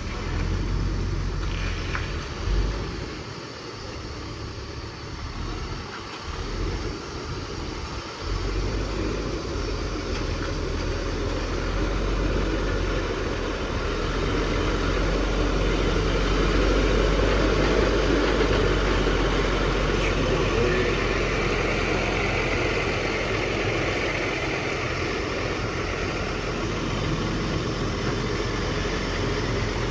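Heavy truck engine running steadily, getting louder about eight seconds in and again around the middle.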